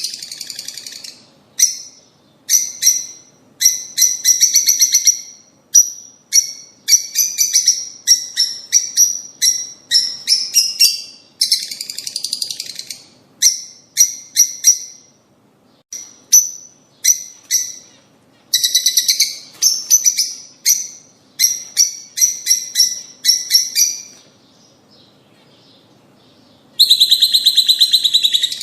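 Lovebirds chirping in rapid runs of sharp, high chirps broken by short pauses, with a quiet gap of a few seconds near the end before a loud, dense run of calls.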